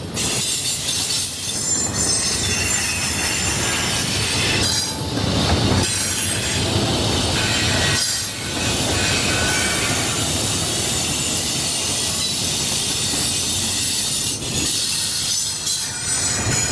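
Freight train rolling past, with the railcar wheels giving a sustained high-pitched squeal against the rails under a steady rumble of the cars.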